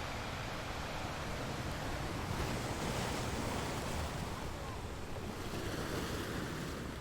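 Sea waves washing and breaking against rocks, a continuous rush of surf that swells louder a couple of seconds in and again near the end, with wind buffeting the microphone.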